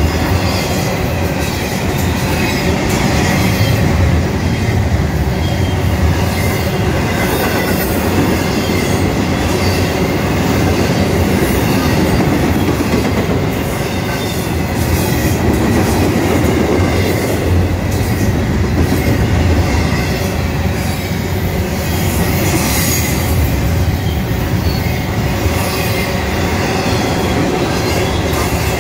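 Double-stack intermodal freight cars rolling past close by: a loud, steady rumble of steel wheels on the rails, with thin high wheel squeal over it.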